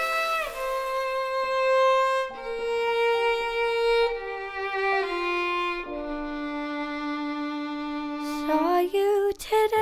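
Violin playing the slow introduction of a song in long held notes, sliding upward in pitch near the end.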